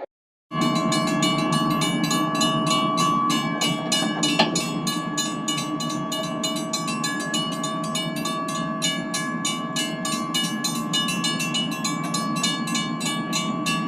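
Lionel O-gauge model train running along the track: a steady motor hum with a fast run of clicks as the wheels pass over the rail joints. It starts suddenly about half a second in.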